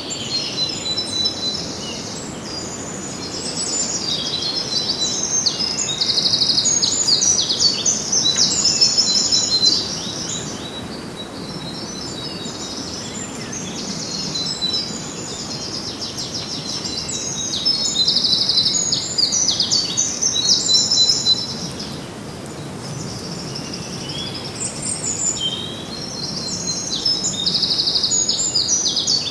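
Small songbirds chirping and trilling in quick, high-pitched runs of notes that come in clustered bursts, with brief lulls between them. Under the birds there is a steady, even background hiss.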